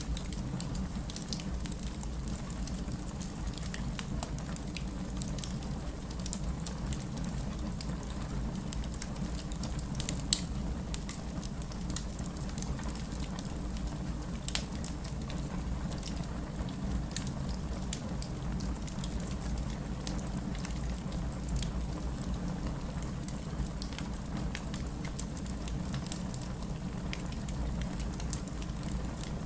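Wood fire burning in a fireplace: a steady low rumble of flames with frequent small crackles and pops, two sharper pops about ten and twelve and a half seconds in.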